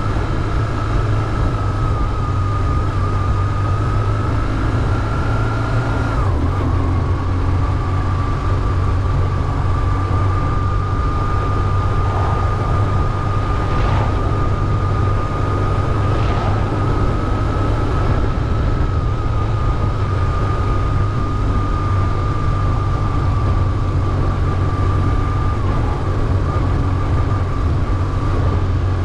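BMW R1150GS's air/oil-cooled boxer twin running steadily under way, with a brief drop in pitch about six seconds in before it settles again.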